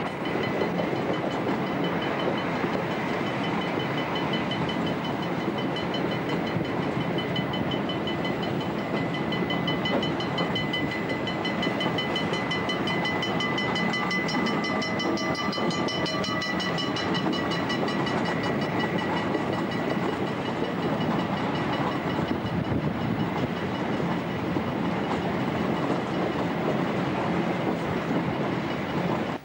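Locomotive-hauled passenger train running at speed, heard from an open carriage window: steady wheel-on-rail rumble and wind rush with a steady high whine. A rapid high ringing comes and goes, loudest about halfway through, as the train passes a level crossing.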